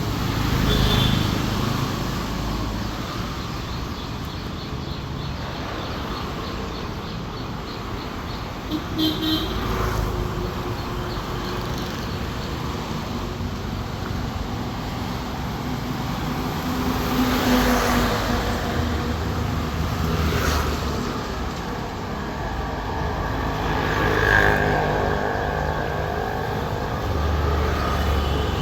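Road traffic passing on a city street: a steady hum of engines and tyres, with individual vehicles swelling past now and then and a short horn toot about two-thirds of the way through.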